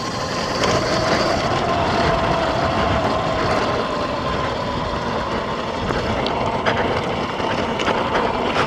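X Pro dirt bike's single-cylinder four-stroke engine running steadily under way on a trail, its pitch easing slightly lower midway, with a few short knocks near the end.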